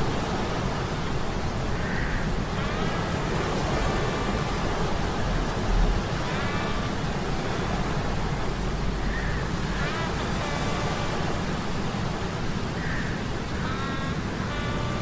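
Stormy sea ambience with steady surf noise and a low rumble, overlaid every few seconds by short pitched metallic hums from metal gears. There is a low thud about six seconds in.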